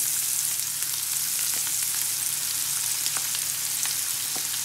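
Spice-marinated chicken wings shallow-frying in hot oil in a pan: a steady sizzle with scattered crackles.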